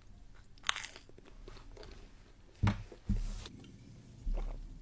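Close-miked biting and chewing of a pizza slice: a few separate crunchy bites with chewing in between.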